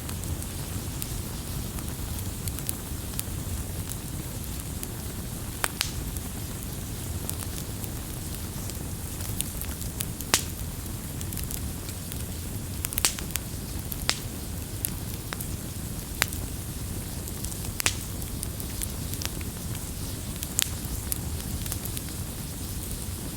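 Wood fire crackling: a steady low hiss of flames with scattered sharp pops, several louder ones at irregular intervals.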